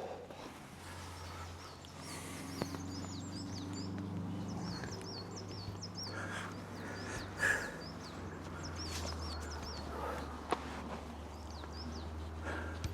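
A songbird singing in the woods, repeating short, quick, high looping phrases over and over. Beneath it runs a steady low drone, like a distant engine. A few sharp knocks and rustles come from close by, the loudest about halfway through.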